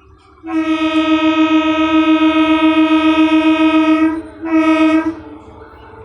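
Electric multiple unit train's horn: one long, loud blast of about three and a half seconds, then a short second blast, over the rumble of the passing train.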